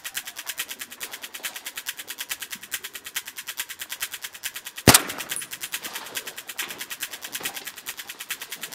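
A single loud gunshot about five seconds in, over background music with a fast, even ticking beat.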